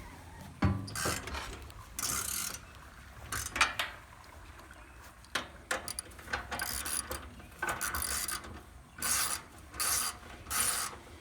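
Ratchet wrench clicking in about eight short strokes with pauses between, tightening the cleaned fuel tank back onto the generator.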